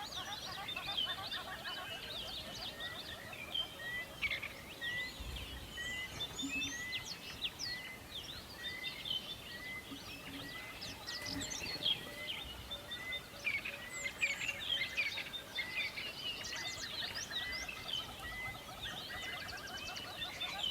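Many songbirds chirping and singing at once in a forest chorus, with one bird repeating a short note about once a second through the middle.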